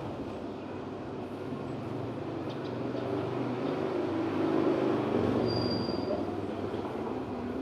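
Steady rumble of vehicle or machinery ambience with a low hum, a couple of faint clicks near the middle and a brief high tone about five and a half seconds in.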